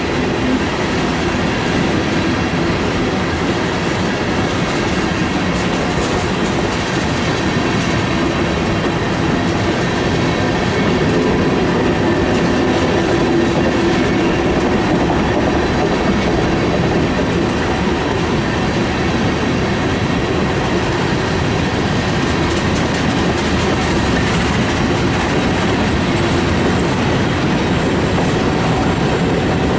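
A train rolling past close by: steady loud wheel-on-rail noise with the clickety-clack of cars over rail joints and a faint high wheel squeal.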